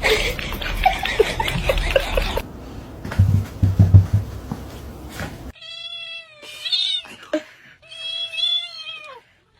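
Clatter and a few heavy low thumps, then after a cut a cat giving two long drawn-out meows, the second falling in pitch at its end.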